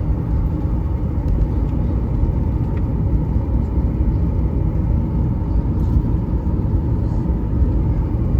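Airliner cabin noise: a steady, even low roar of engines and airflow heard from inside the passenger cabin.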